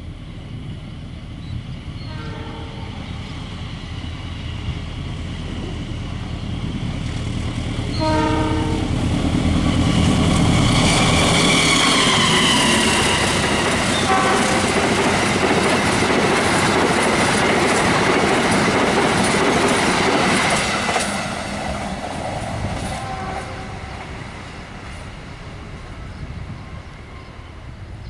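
A train sounding its horn in several short blasts as it approaches, then passing at speed with its wheels clacking rhythmically over the rail joints. It is loudest for about twelve seconds in the middle, the horn dropping in pitch as it goes by, and then fades away, with one more horn blast near the end.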